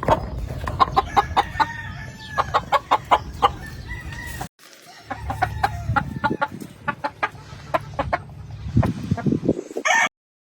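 Gamefowl chickens clucking in many short sharp calls, with a rooster crowing, over a low rumble. The sound drops out briefly about four and a half seconds in and stops near the end.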